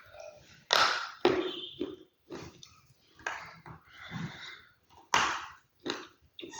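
Close-miked crunchy food being bitten and chewed: a series of sharp, dry crunches every half second to a second, the loudest about a second in and again near the end.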